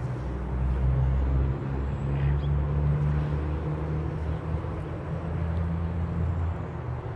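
Low, steady engine-like rumble whose pitch shifts slightly a few times.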